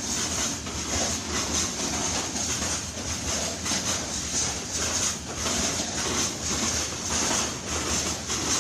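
Train running past on the track: a steady rumble of wheels on rails with a strong hiss over it, rising and falling slightly without a break.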